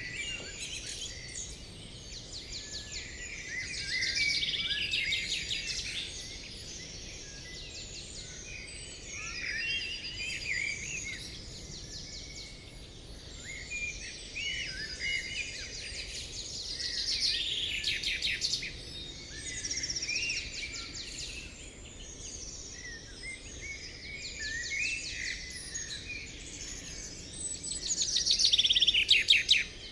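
Birds chirping and singing, a mix of short calls and quick trills that swell in several flurries, the loudest near the end.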